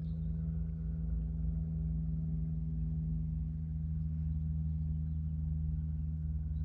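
Steady low hum of a car idling, heard from inside the cabin: a few held low tones over a rumble, unchanging.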